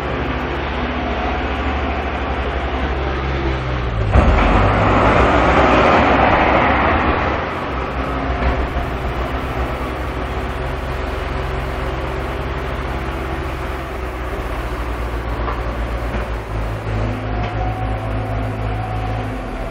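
Heavy diesel engines running steadily at work. About four seconds in, a loud rushing hiss starts suddenly and dies away some three seconds later.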